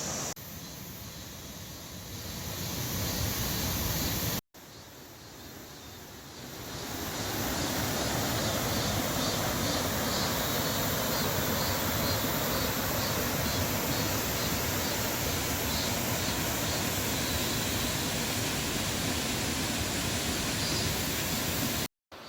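Mountain stream water rushing over rocks, a steady rush that swells louder about two seconds in and again around seven seconds in, cutting out for an instant twice.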